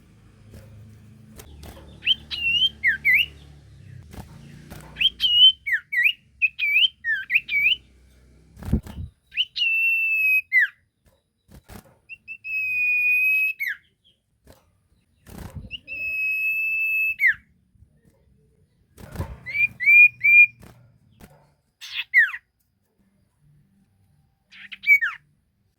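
Sirtu songbird singing in high whistles: quick phrases of up-and-down notes alternating with long, steady, level whistles. A few short knocks fall between the phrases.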